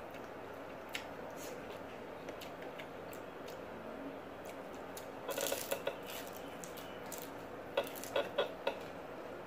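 Eating sounds: chewing and lip smacks from someone eating rice and vegetables by hand, with a cluster of smacks around five seconds in and four sharp smacks near the end, over a steady room hum.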